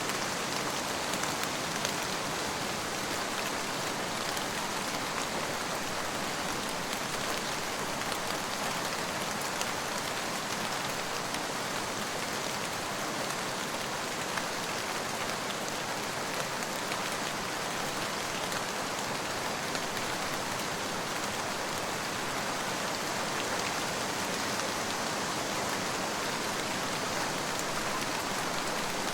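Steady rain falling on a surface, an even hiss of many small drop impacts, with no thunder in this stretch.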